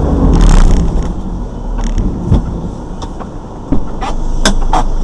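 Road vehicle noise, a steady rumble of engine and road, with several sharp knocks and clicks; the loudest comes a little over halfway through.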